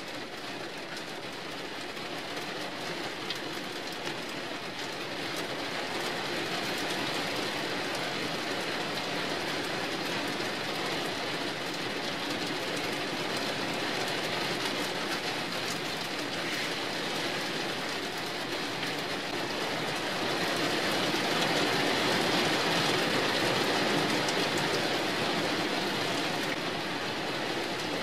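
Rain on a tin roof: a steady dense patter that grows heavier over the first several seconds and is heaviest about three quarters of the way through.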